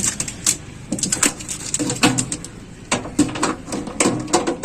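Irregular sharp clicks and knocks of plastic parts being handled, as the washing machine's drain hose is fitted and clamped in place.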